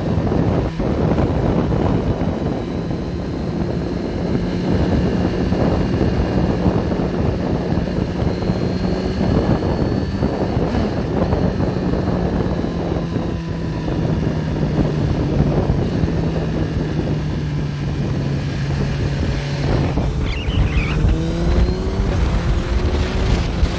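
A motor vehicle's engine running steadily under rumbling wind noise on the microphone, its pitch rising a few times near the end.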